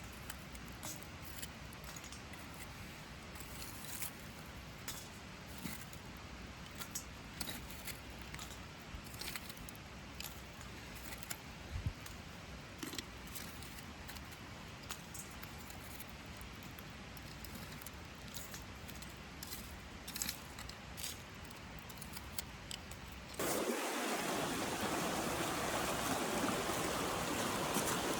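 Wood campfire crackling, with irregular sharp pops and snaps over a quiet background. About 23 seconds in, it cuts abruptly to a louder, steady rushing hiss.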